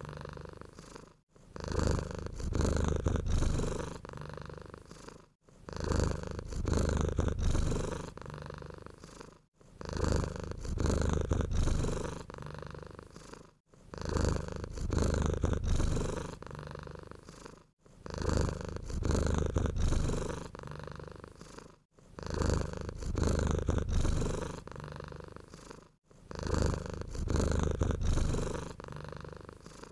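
Domestic cat purring steadily, in even breath cycles about every four seconds: a louder stretch, then a softer one, with a brief break between cycles.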